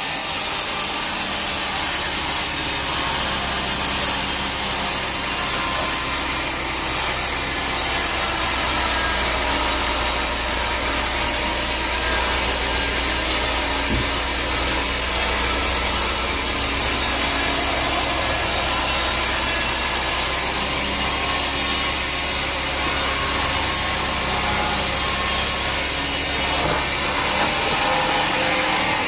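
Sawmill band saw cutting through a teak log: a steady rasping of the blade in the wood over the constant hum of the mill's motor. The high hiss thins about three seconds before the end.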